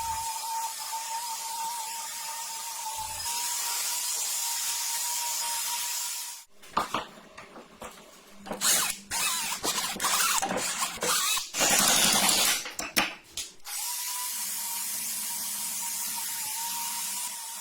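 Power tool worked in short, irregular bursts for about seven seconds, between stretches of steady hiss with a faint high hum.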